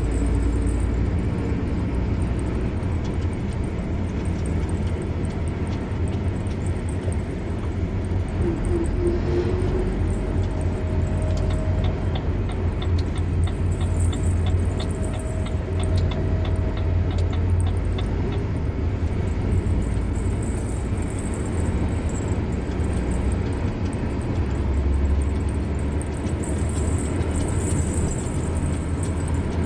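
Car driving along a road: a steady low rumble of engine and tyre noise. About a third of the way in, a quick, even ticking runs for several seconds and then stops.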